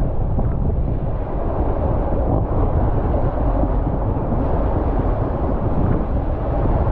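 Steady wind rumble buffeting a rider's camera microphone during a waterslide ride, with an even rushing noise throughout and no distinct events.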